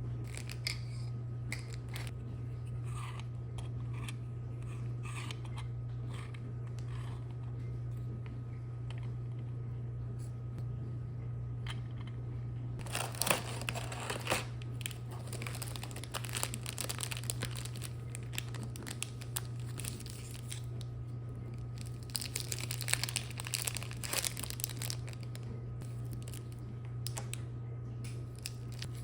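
Crinkling and rustling from handling something crisp, in scattered short rustles with two longer spells about 13 and 23 seconds in, over a steady low hum.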